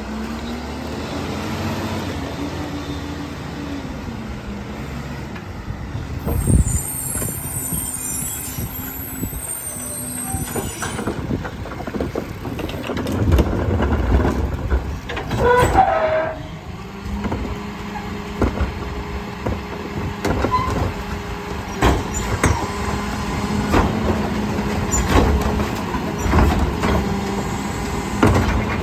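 Garbage truck's engine running and revving while its hydraulic packer compacts a heavy load of recycling. A high squeal sounds for several seconds early on, knocks and clunks are scattered through, and from about halfway a steady revved engine drone holds.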